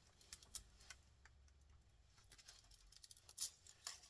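Scattered light clicks and taps of small scrap parts being handled, with a sharper pair of clicks late on.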